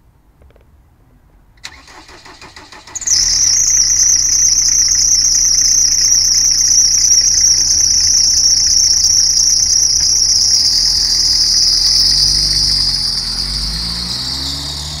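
Hatchback car's engine being started: a click, a second or so of starter cranking, then the engine catches about three seconds in and runs loudly with a strong high-pitched whine that slowly falls in pitch. Near the end the engine note rises and falls.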